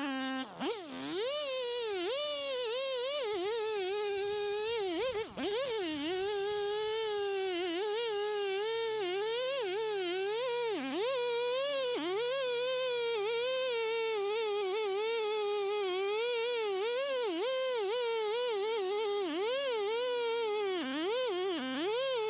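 Chainsaw running under load while cutting into a tree, its pitch wavering up and down as it bogs and recovers in the cut, with a brief drop about five seconds in.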